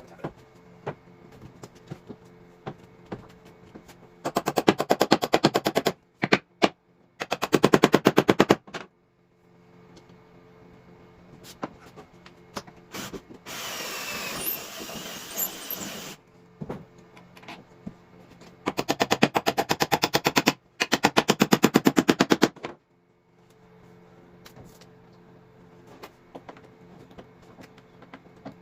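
Cordless impact driver hammering screws into the drift boat's seat brackets in four short bursts of rapid rattling. In the middle there is a steadier run of a power drill motor.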